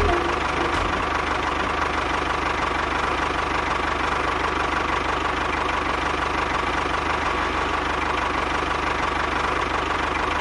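A small motor running steadily at an even speed.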